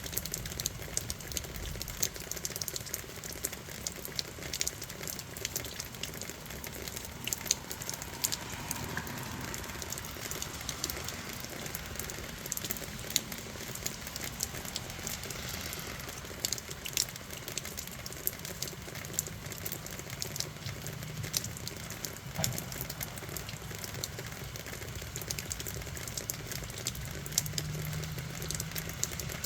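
Steady rain at night, with many separate drops ticking sharply on a hard surface over a constant wash of falling rain.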